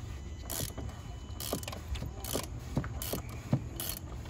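Ratchet wrench clicking in short rasping strokes, about one every three-quarters of a second, as it is swung back and forth to loosen the oil filter cartridge housing on a 2015 Audi Q7. A sharper knock comes about three and a half seconds in.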